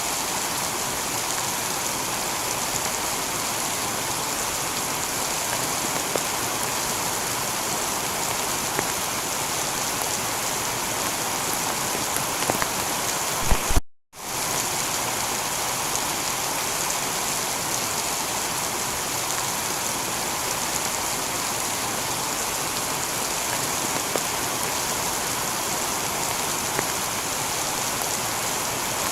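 Steady heavy rain, an even hiss of falling water. About halfway through, a couple of sharp pops are followed by a brief cut to silence, and then the rain carries on.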